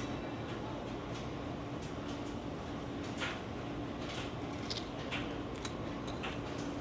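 A steady mechanical hum with rushing air noise, with several light knocks and clicks in the second half.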